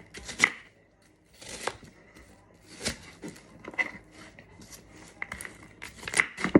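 Knife chopping apple on a cutting board: a series of irregular sharp knocks as the blade cuts through and strikes the board.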